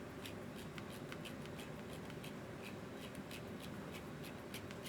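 Hands handling small parts at a workbench: irregular light clicks and rustling over a steady low hum.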